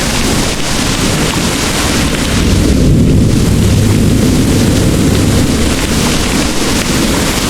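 Heavy rain pouring steadily, with a low roll of distant thunder swelling up a couple of seconds in and fading over the next two seconds.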